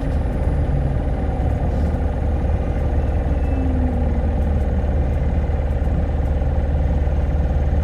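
Hino Blue Ribbon hybrid city bus running, heard from inside the cabin: a steady low engine drone with road noise.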